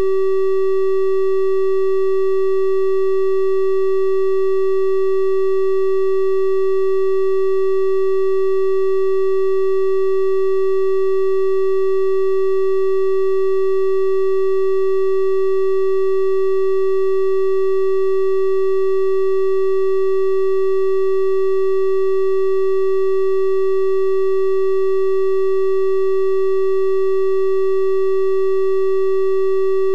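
Synthesized 384 Hz triangle-wave tone, one steady pitch held without change.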